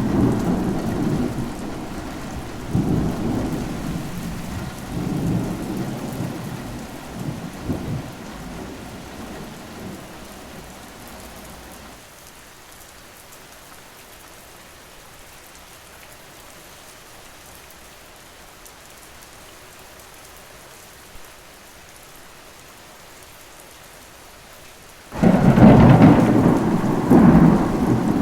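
Steady rain with thunder: a rolling rumble that swells a few times and dies away over the first ten seconds or so, then rain alone, until a sudden loud thunderclap rolls in near the end.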